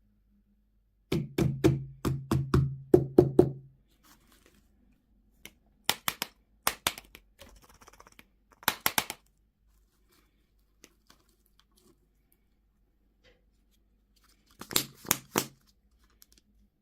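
Hard plastic candy and toy packaging being handled and opened. A quick run of clicks and knocks comes about a second in, with a low hum under them. Scattered clicks and a short crinkle follow, then another cluster of clicks near the end.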